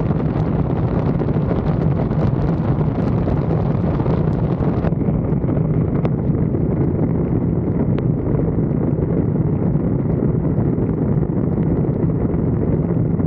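Steady, loud wind rushing over the microphone of a roof-mounted 360° camera, a dense low rumble. The higher hiss thins out about five seconds in.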